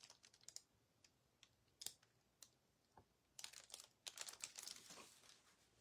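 Faint handling sounds close to near silence: a few scattered light clicks and taps, then about two seconds of soft rustling and ticking in the second half, from objects being moved on a work table.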